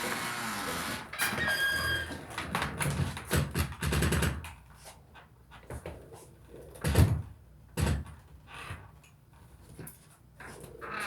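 A door and scattered knocks and thumps, the loudest about seven seconds in, with a brief high squeak near the two-second mark.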